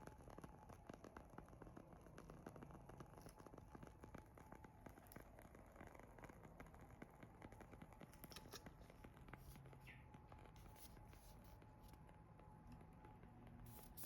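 Faint crackling of a wood fire: scattered small irregular pops and snaps over a low steady hiss.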